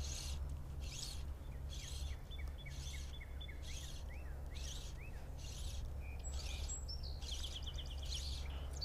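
Songbirds singing: a high call repeated about every 0.7 s, a string of quick falling chirps in the first half, and a fast trill near the end, over a steady low rumble.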